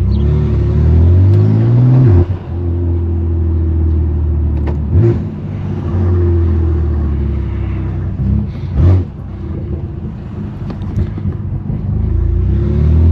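The 2018 BMW M3 Competition's S55 twin-turbo inline-six running through a straight-pipe exhaust while driving. The revs climb for about two seconds, drop off sharply, then hold fairly steady with short blips about five and nine seconds in, and climb again near the end.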